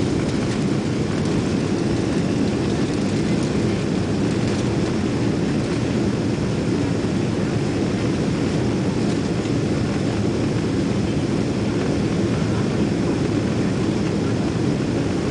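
Steady low roar of jet engines and airflow heard inside the economy cabin of a Boeing 777-200 climbing after takeoff.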